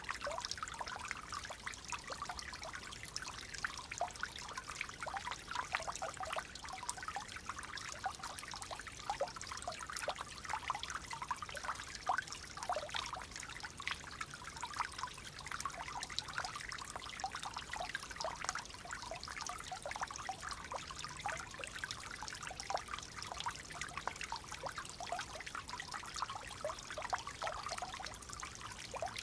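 Gently flowing water trickling and babbling steadily, a dense run of small splashes.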